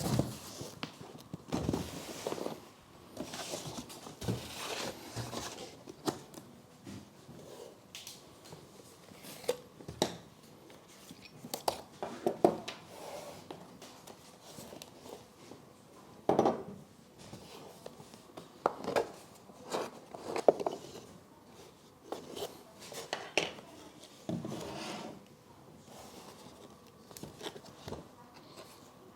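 Parts of an RC hydraulic excavator kit being handled and fitted: irregular clicks, light knocks and clinks of small metal parts, with some rustling.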